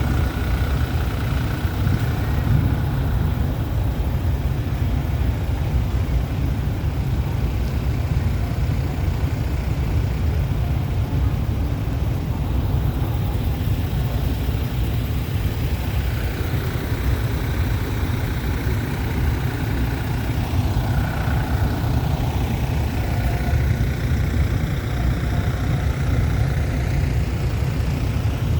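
Motor vehicle engine running steadily, a continuous low rumble with no pauses.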